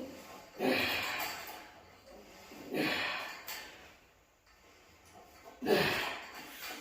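A man breathing hard from heavy exertion: three forceful, noisy breaths out, about two and a half seconds apart, each trailing off.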